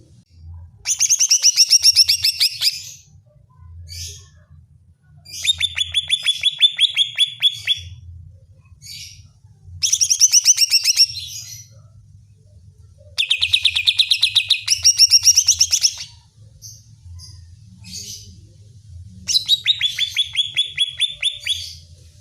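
A cucak ijo (greater green leafbird) singing in five bursts of fast, rapidly repeated notes, each two to three seconds long, with short single calls in the pauses between them. It is a challenging song of the kind used to provoke rival cucak ijo into singing back.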